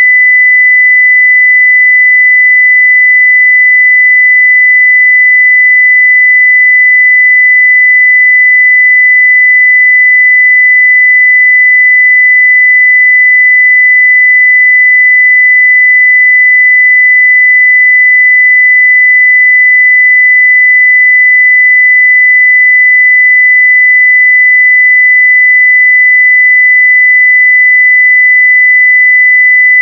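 A steady, unbroken 2 kHz sine-wave test tone at near full-scale level.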